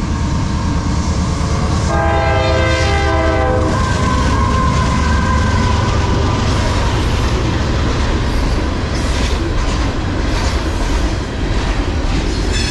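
CSX freight train passing close at speed behind two GE diesel-electric locomotives, with a loud, steady rumble of engines and wheels on rail. The locomotive's air horn sounds one blast of nearly two seconds about two seconds in. After it, the freight cars keep clattering by.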